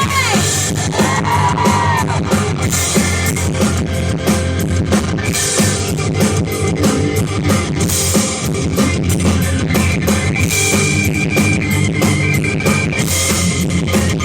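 Live rock band playing an instrumental passage: electric guitar over a steady drum kit beat with cymbals, the guitar bending notes in the first couple of seconds.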